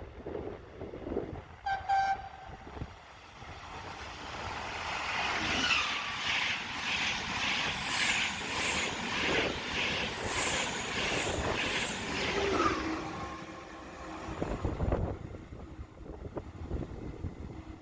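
A short train horn toot about two seconds in, then a train passing through the station, its wheels clattering over the rail joints about twice a second with a few short high squeals, swelling and fading away by about fourteen seconds.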